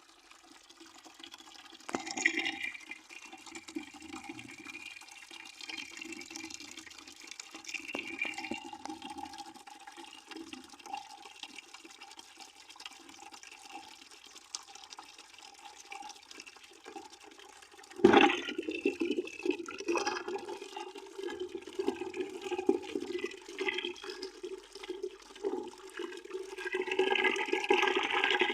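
A stream of water pouring into a partly filled bucket: a steady, uneven splashing and gurgling into standing water, with sudden louder surges about 2 seconds in and again about 18 seconds in, growing louder near the end.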